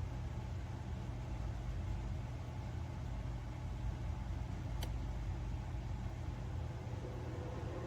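Steady low machine hum with a hiss over it, and a single sharp click about five seconds in.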